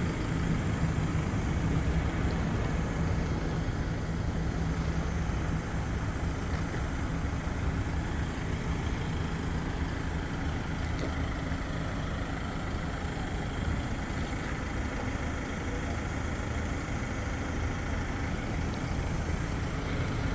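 Truck engine running steadily, a low even hum that is a little stronger over the first several seconds.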